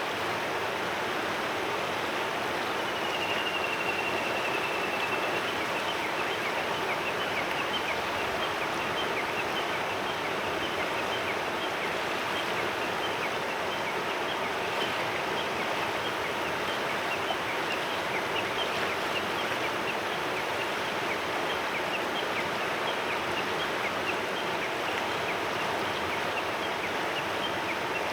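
Clear mountain river running steadily over stones, a constant rushing murmur. About three seconds in, a single drawn-out bird whistle sounds over the water for about two seconds.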